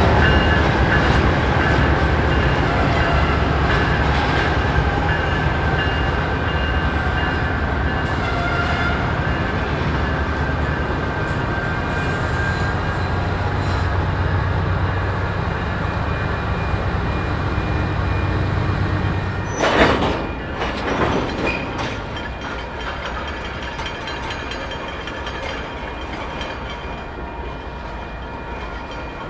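Canadian Pacific manifest freight train rolling slowly as it stops for a switch: a steady low rumble with thin, high squeals from the wheels and brakes. Two loud clanks come about twenty seconds in, after which the sound grows quieter.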